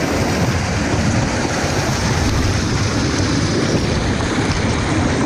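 Waterfall: water rushing and splashing down the rocks in a steady, loud roar.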